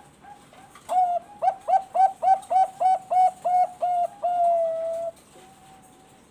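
Zebra dove (Thai-bred perkutut bangkok) singing. A few faint coos lead into a loud run of about a dozen quick staccato coos, about three a second, which ends in one long drawn-out note. A faint single note follows.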